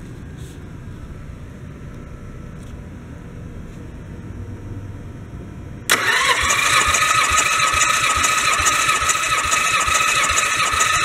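Nissan VG30DETT twin-turbo 3.0 L V6 engine running with a low rumble. About six seconds in, a much louder sound with a steady high whine cuts in suddenly.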